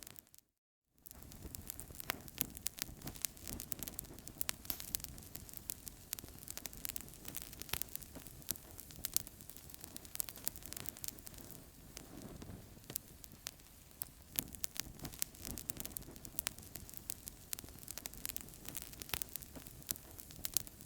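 Wood fire in a fireplace crackling, with a steady hiss of flames and frequent sharp pops. The sound cuts out for about half a second near the start, then resumes.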